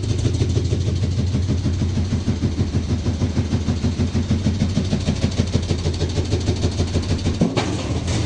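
Washing machine running with a steady hum and a rhythmic thumping about six times a second as the machine shakes, with a sharp click near the end.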